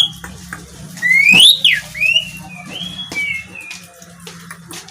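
Asian pied starling (jalak suren) singing. About a second in comes a loud whistle that rises and then drops sharply, followed by a run of shorter slurred and level whistles.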